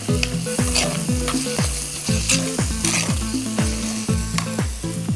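Shallots, drumstick pieces and tomato sizzling as they sauté in hot oil in a pan, stirred with a spatula that scrapes the pan now and then. A steady low beat of background music, about two beats a second, runs underneath.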